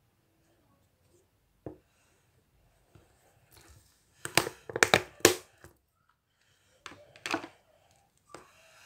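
Slime being squeezed and worked by hand, giving a run of sharp clicks and pops in short clusters, loudest a little past the middle and again near the end.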